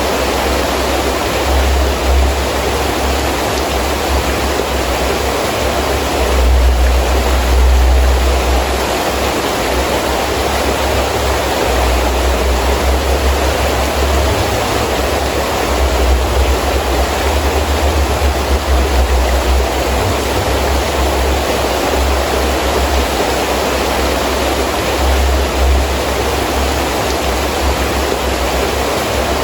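Heavy rain falling steadily, with wind gusting in a low rumble that swells and fades several times.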